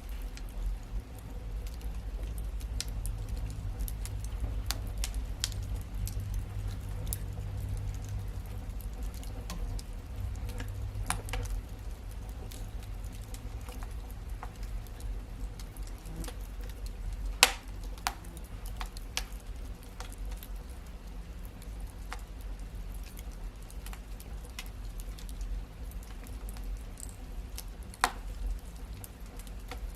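Wood fire in a fireplace crackling: scattered sharp pops and snaps over a low steady rumble, with two louder pops, one about halfway through and one near the end.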